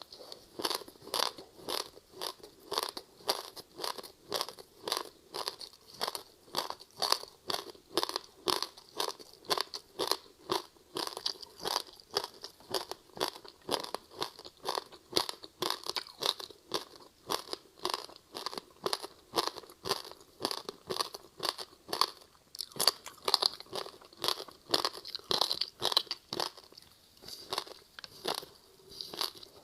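A person chewing frozen passion-fruit ice with sesame seeds close to the microphone, in a steady run of crunches at about two to three a second.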